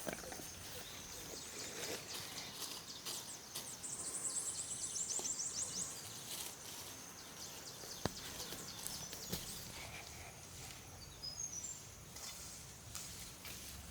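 Tropical forest ambience: a steady high insect drone, a fast high-pitched trill a few seconds in, and a short run of falling bird chirps about eleven seconds in, with scattered light clicks and one sharp click about eight seconds in.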